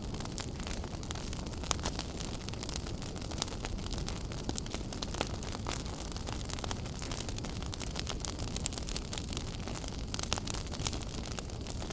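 Wood fire burning in a fireplace, a steady low rush of flame with frequent irregular sharp crackles and pops.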